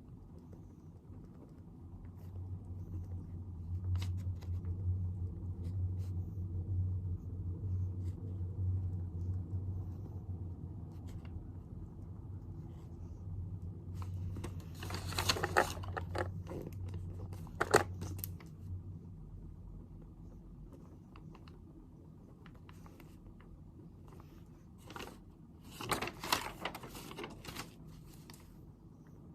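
Handling sounds at a study desk: short bursts of rustling and scraping about halfway through, again shortly after, and near the end, over a low hum that starts a couple of seconds in and fades out a little past halfway.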